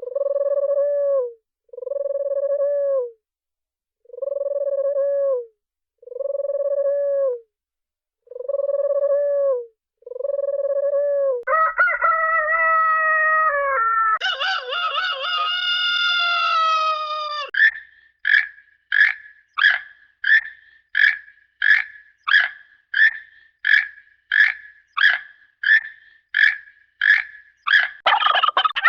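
Hanna-Barbera cartoon sound effects, one after another. First comes a run of about seven even-pitched hoots of a second or so each, then a wavering, warbling call for about six seconds. From about 18 s there are short chirps at about two a second.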